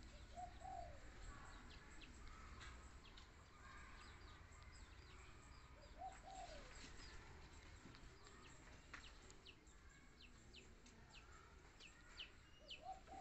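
Faint birds chirping: many short, high chirps scattered throughout, with a lower short call heard three times about six seconds apart.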